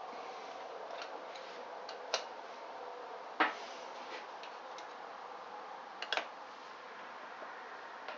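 A few scattered, sharp clicks and light knocks from engine studs being unscrewed by hand and handled on the bench, over a steady faint background hum.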